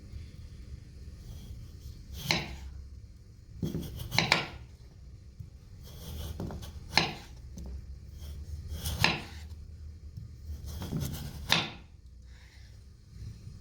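Kitchen food-preparation sounds: irregular knocks and short scrapes of utensils on a wooden board, about ten of them a second or two apart, over a low steady hum.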